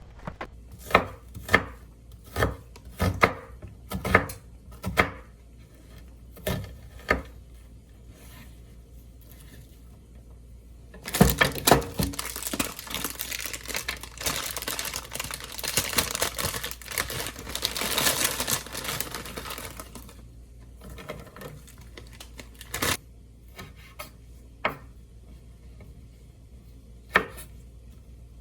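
Kitchen food-prep sounds: scattered sharp knocks and taps, like a knife or utensils on a cutting board. In the middle there are about nine seconds of dense rustling or crinkling, then a few more single knocks.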